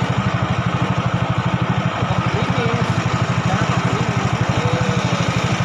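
Small boat engine running steadily at a constant speed, a rapid, even low throb.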